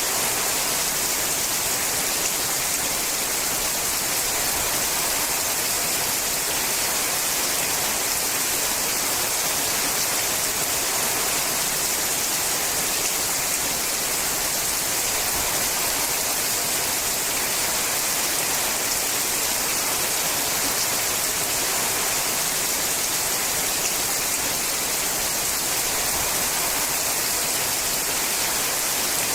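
Rain falling on a sheet-metal roof, a steady, even hiss with no single drops standing out.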